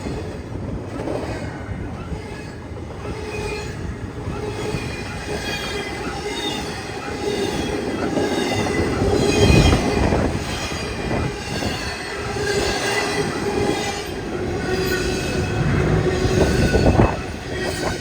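Train rolling past on the rails with a steady low rumble and wavering, high-pitched wheel squeal. The rumble swells louder about halfway through and again near the end.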